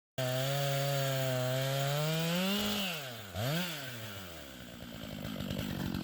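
Stihl 660 two-stroke chainsaw on an Alaskan chainsaw mill, ripping a maple log. It comes in abruptly at high revs with its pitch creeping up, then the engine speed dips sharply twice about three seconds in. After that it runs steadily under load with a rougher, noisier sound as the chain cuts.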